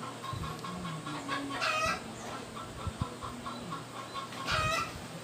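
Birds calling in the background: two short, louder calls, one about two seconds in and one near the end, over a faint repeated chirping.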